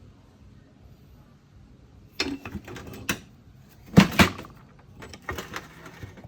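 Knocks and clatter of engine parts being handled on a workbench during a teardown. They start about two seconds in, with two loudest knocks close together a little past the middle and a few lighter ones after.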